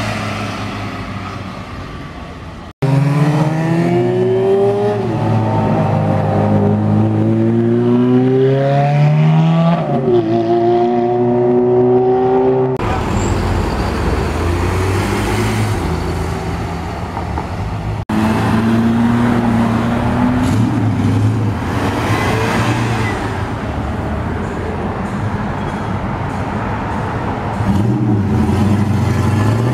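A run of performance vehicles accelerating away one after another. First an MV Agusta F3 sport motorcycle pulls off and fades. Then an engine revs hard, its pitch climbing and dropping at two gear changes, and after that a Porsche 911 Turbo and other cars drive off with rising engine and exhaust noise.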